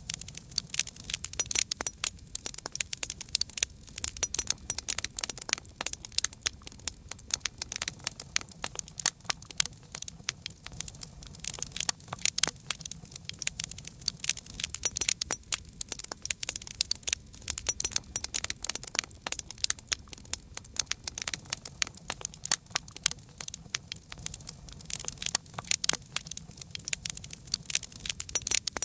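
Campfire burning, with dense, irregular sharp crackles and pops of burning wood over a low steady rumble.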